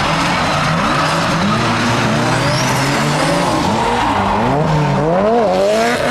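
Car engine revving hard, its pitch swinging up and down repeatedly, over a continuous rush of skidding tyre noise, as in a drifting display.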